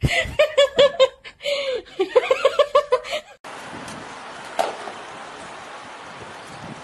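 High-pitched laughter in quick, rapid pulses for about three seconds, cut off abruptly. It is followed by steady wind noise on the microphone with a single click.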